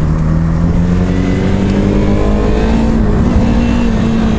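Yamaha MT-25's 249 cc parallel-twin engine running under way, its revs rising gradually for about three seconds as the bike accelerates, then holding steady, over wind and road noise.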